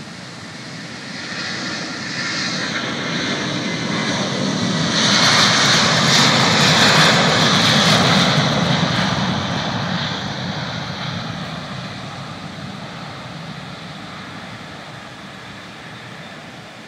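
Twin turbofan engines of a Boeing 767 at takeoff thrust, passing by: a jet roar with a strong high hiss and a low rumble that swells to its loudest about halfway through, then slowly fades as the airliner climbs away.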